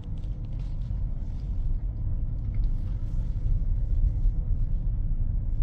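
Steady low rumble of a vehicle moving over the road, heard from inside, growing a little louder partway through.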